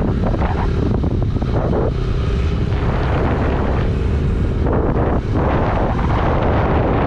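Wind buffeting the microphone of a moving motorcycle, a heavy steady rumble, with the motorcycle's engine running underneath.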